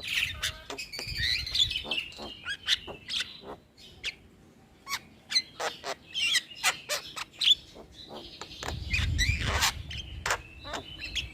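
Javan myna (jalak kebo) chattering: a busy run of sharp clicks, squeaks and short whistled glides. There is a brief lull about four seconds in, and a low rumble comes in under the calls near the end.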